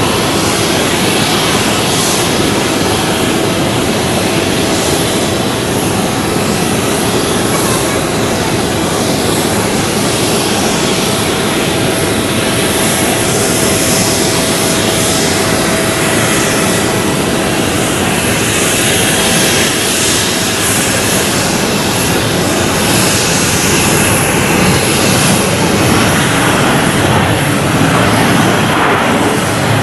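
Jet engines of a Boeing 787-10 Dreamliner running loud and steady, a dense roar with a thin steady tone over it that fades out about three-quarters of the way through.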